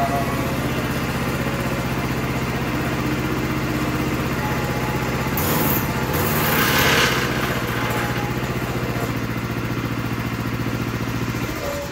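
Predator 212 single-cylinder four-stroke engine running at a steady speed on a go-kart drivetrain, with a louder rush of noise for a couple of seconds about halfway through.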